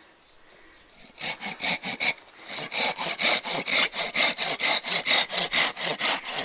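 Hand saw making stop cuts into a seasoned alder spoon blank: quick back-and-forth strokes, about four a second, starting a little over a second in, with a short pause around two seconds.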